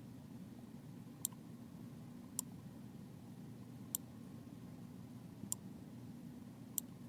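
Computer mouse clicking five times, a second or so apart, over a faint low steady hum.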